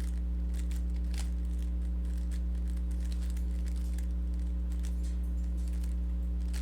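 Rubik's cube being turned through an algorithm, a run of quick faint plastic clicks and scrapes from the layers. A steady low hum lies under them and is the loudest sound.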